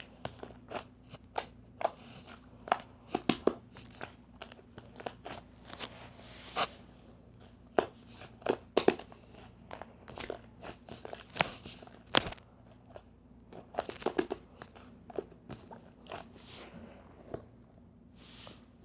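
Close-up crunching: irregular sharp crackling clicks, a few to several a second, over a faint steady hum.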